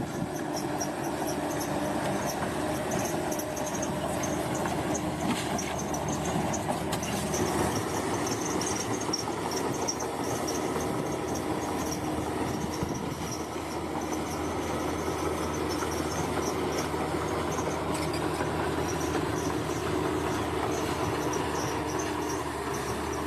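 Heavy earthmoving machine, most likely a bulldozer, with its engine running steadily at an even pitch and a rattling of working machinery, under a high chirping that pulses on and off.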